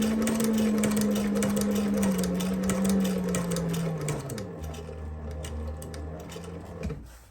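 Techsew 2900 leather and cobbler's sewing machine stitching through leather. Its clutch-driven servo motor hums steadily under a quick run of needle-stroke clicks, slows with a drop in pitch about four seconds in, and stops near the end.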